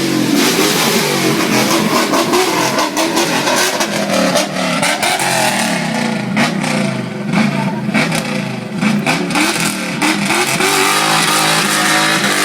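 Supercar engines revving hard, pitch rising and falling again and again, with several engines overlapping and frequent sharp cracks.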